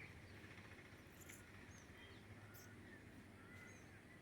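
Near silence with faint, scattered bird chirps, short calls repeating every second or so.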